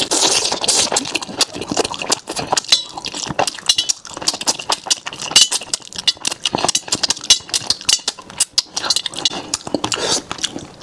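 Close-miked chewing: a man eating with his mouth open, making a rapid, irregular run of wet clicks and crunches.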